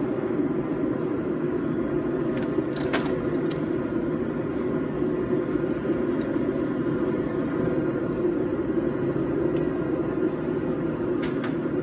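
Forge running with a steady rushing noise, and a few light metallic clicks about three seconds in and again near the end.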